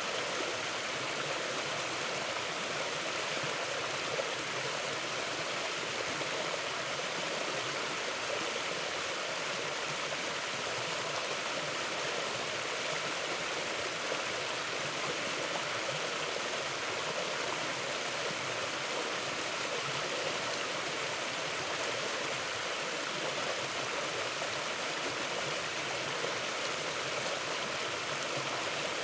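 Mountain stream flowing steadily over rocks: an even, unbroken rush of water.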